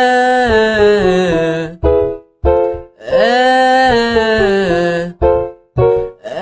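A male voice singing a descending five-note scale (sol-fa-mi-re-do) on a single sound, twice, each phrase cued by a short piano chord. It is a vocal-fold closure exercise, meant to keep the cords closed all the way down the scale.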